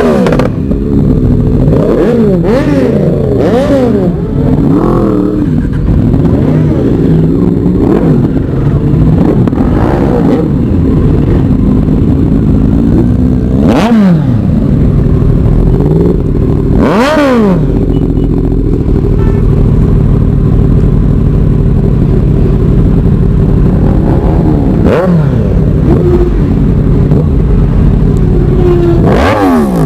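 Yamaha R1's inline-four engine through a full-system Akrapovic exhaust, idling loud and revved in sharp throttle blips: several in quick succession in the first few seconds, then single revs spaced through the rest, each pitch rising and dropping straight back to idle.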